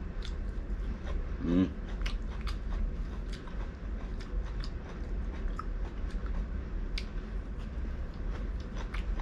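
Close-up mouth sounds of a person biting and chewing air-fried barbecue duck, with many short, sharp clicks and smacks.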